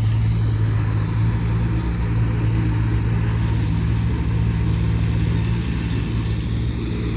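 Heavy diesel engine of earthmoving equipment running steadily at an even speed, a low constant engine drone.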